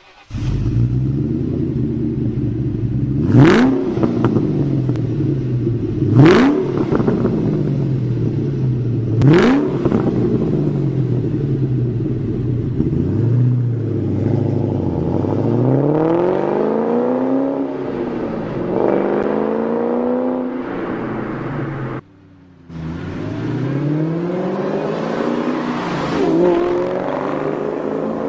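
Ford Mustang Cobra V8 breathing through a Magnaflow exhaust and muffler: it starts running at once and gives three quick throttle blips a few seconds apart, then longer, slower rises and falls in engine speed. The sound breaks off for about half a second roughly two-thirds through, then the exhaust note returns with more revving.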